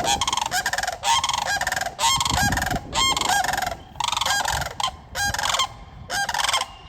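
Sandhill cranes giving a string of about seven loud, rolling calls, each under a second, back to back: agitated birds defending their nest against an intruding swan.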